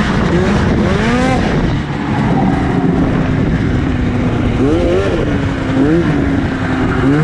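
2004 Arctic Cat F6 snowmobile's two-stroke twin engine revving in quick throttle blips, the pitch climbing and dropping, then holding a steady note for a couple of seconds before rising and falling again a few more times.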